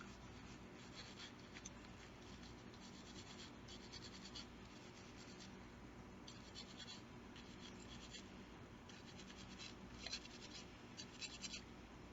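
Faint scratching of a bristle brush scrubbing the frame of a Taurus G2S 9mm pistol, in runs of quick back-and-forth strokes.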